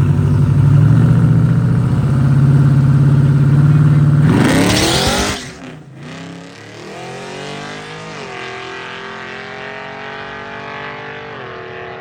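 Drag car's engine held at high revs on the starting line, then launching about four seconds in with a sharp rise in pitch and pulling away down the strip. The engine grows fainter as it accelerates, its pitch climbing and dipping twice at gear changes.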